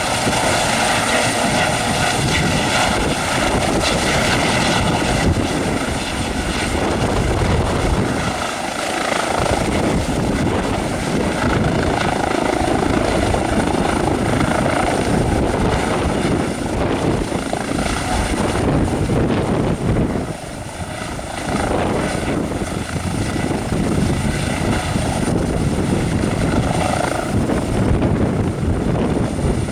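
Turbine news helicopter running nearby: a steady high turbine whine over the beating of the rotor, with a brief dip in loudness about twenty seconds in.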